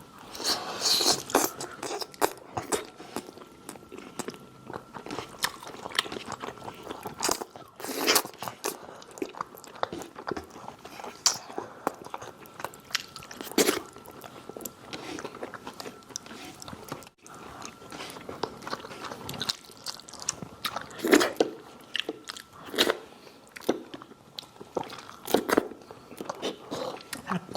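Close-miked biting and chewing of crispy fried chicken, with irregular sharp crunches of the breaded skin between quieter chewing.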